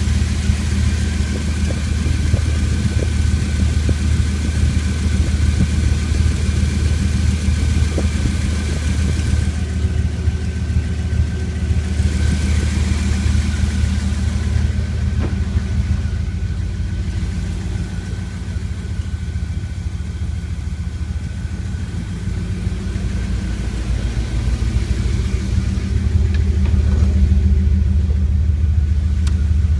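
2001 Dodge Ram Sport's 5.9-litre engine running steadily with a low rumble, a little quieter through the middle and louder again near the end.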